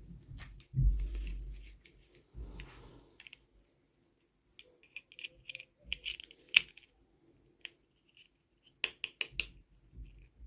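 Small plastic toys and packaging being handled. A few dull thumps come in the first seconds, then scattered sharp clicks and taps, with a quick run of four or five clicks near the end.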